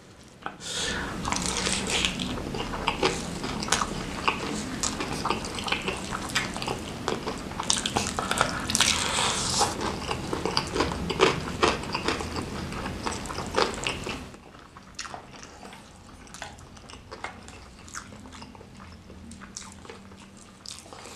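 Close-miked biting and chewing of crispy fried chicken coated in chili sambal (ayam geprek): dense crunching with wet mouth sounds. About 14 seconds in it drops to quieter, softer chewing.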